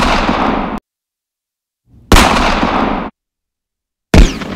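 Aerial fireworks bursting: sharp loud bangs about two seconds apart, each followed by about a second of echoing noise, the last fading out slowly.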